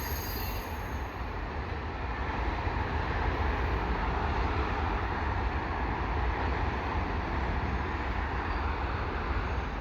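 Freight train rolling past on the tracks: a steady rumble of wheels on rail with a wide hiss of noise, a little louder partway through.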